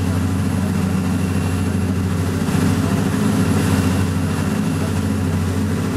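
Charter fishing boat's engine running steadily: an even, low drone.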